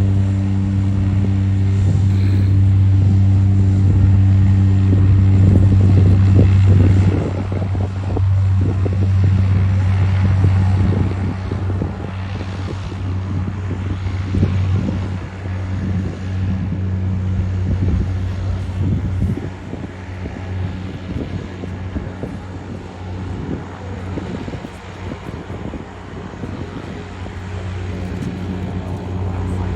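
Floatplane's propeller engine running at takeoff power, a loud steady drone with a strong low hum. About seven seconds in the steady tone weakens, leaving a more uneven rumble.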